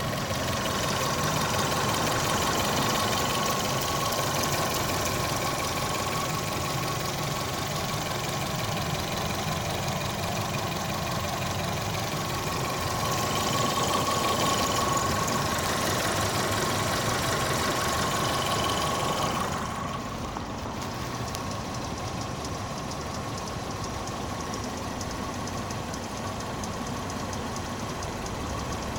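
Volkswagen Polo's 1.4 CGGB four-cylinder petrol engine idling, with a steady whine running through it. This is the strange noise that appeared at 72,000 km: barely audible from under the bonnet, plain near the wheel, and almost gone once the engine is warm. About two-thirds of the way through, the sound turns duller and slightly quieter.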